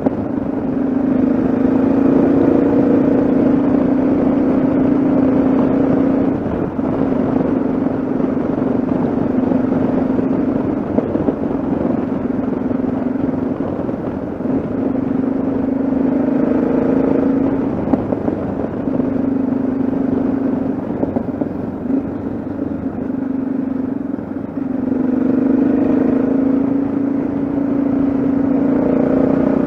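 Yamaha XT660Z Ténéré's single-cylinder engine running at a steady cruising pitch while riding, with a continuous rush of wind and road noise. The engine note eases off briefly several times.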